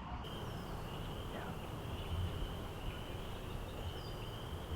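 Outdoor spring-woods ambience: a low wind rumble on the microphone under a steady high-pitched buzzing trill, with a couple of faint bird chirps.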